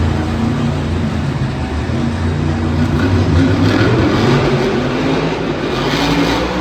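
Monster truck engine running loudly and revving, its pitch rising and falling.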